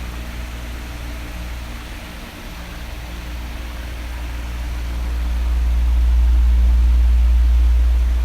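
Electric fan running: a steady rush of air over a low motor hum. The hum grows louder about five seconds in and starts to fade near the end.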